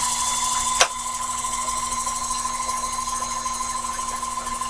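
Sherline mini lathe running steadily while turning a part between centers, a steady motor whine over cutting hiss, with one sharp click about a second in.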